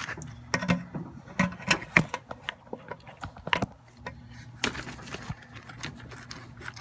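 Irregular metallic clicks and clinks of hand tools such as pliers working on a metal part, with the busiest run in the first two seconds and a few more knocks later.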